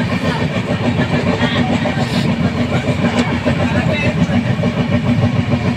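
A vehicle running, with a steady low rumble.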